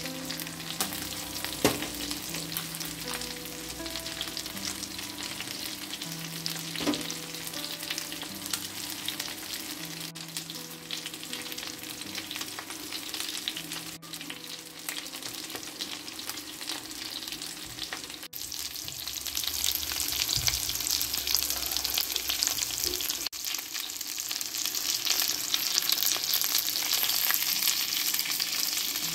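Chicken skewers and cherry tomatoes sizzling and crackling in hot oil in a frying pan. There are two light knocks about five seconds apart, and the sizzle grows louder about two-thirds of the way through.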